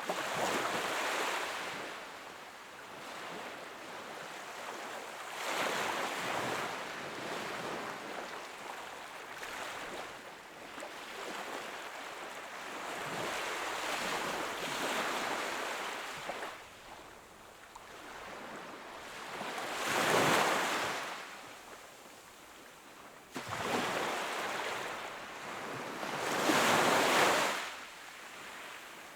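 Ocean waves breaking and washing on the shore, swelling and fading in surges every few seconds, with the two strongest about two-thirds of the way through and near the end.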